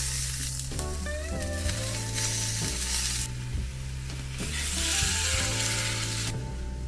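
Fish sizzling as they are laid on a hot griddle plate, a steady frying hiss that drops out briefly a little past the middle and stops just before the end, over background music with a low, steady bass.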